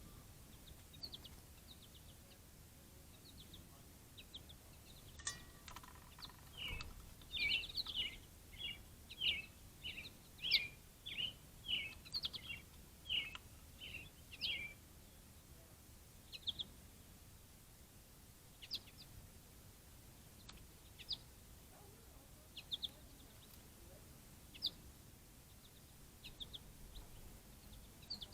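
Wild songbirds singing and chirping: a run of about a dozen quick, clear notes, each about half a second apart, then scattered single chirps. A single sharp click comes about five seconds in.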